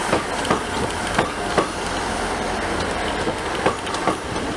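East Midlands Trains diesel multiple unit moving slowly past, its wheels clicking over the rail joints in pairs under a steady rumble of running noise.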